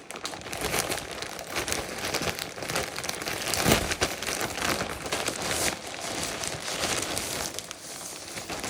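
Delivery packaging being handled and opened, crinkling and rustling continuously, with one louder crunch about three and a half seconds in.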